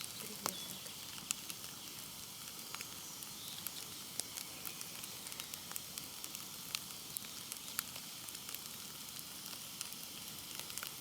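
Wood campfire burning down to hot coals: a steady faint hiss dotted with scattered sharp crackles and pops.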